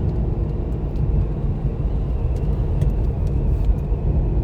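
Steady low rumble of a car on the move, engine and road noise with no sudden events.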